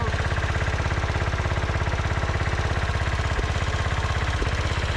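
MTD 990 garden tractor's small engine running steadily at a low, even speed on its first run after sitting, with an even, rapid firing pulse and a couple of faint knocks late on.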